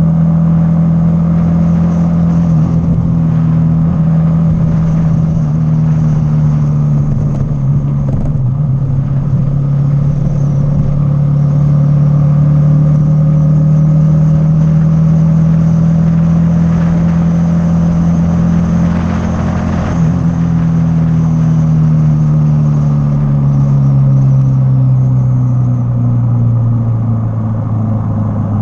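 Hero XPulse single-cylinder motorcycle engine running at a steady cruising speed. Over the last several seconds its pitch falls gradually as the revs drop.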